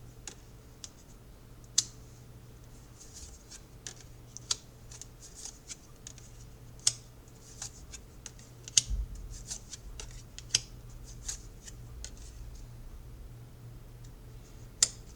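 Tarot cards being handled and shuffled: irregular light snaps and ticks of card edges, with a few sharper clicks.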